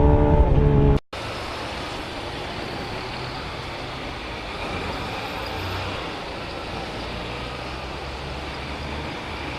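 A loud engine tone for about a second, cut off suddenly. Then a steady rush of riding noise through traffic with a faint low engine hum, as heard from a moving motorcycle.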